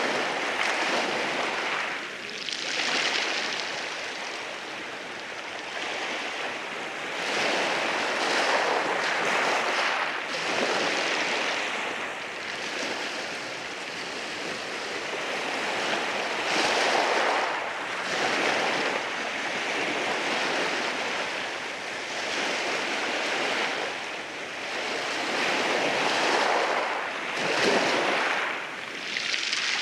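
Sea waves rolling in and washing over rocks at the shore: a continuous rush of surf that swells and eases every few seconds.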